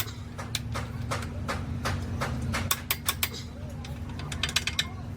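Irregular sharp metallic clicks and taps of hand tools working on engine parts, over a steady low hum.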